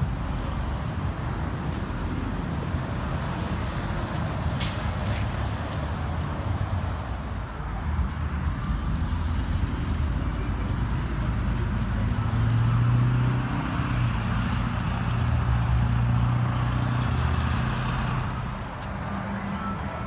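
Car engine running, its low hum getting louder for several seconds past the middle and then easing off.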